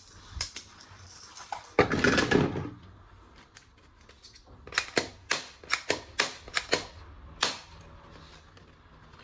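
Plastic toy guns being handled. A loud rustling burst of about a second comes first, then a run of about nine sharp plastic clicks near the middle, spaced roughly three a second.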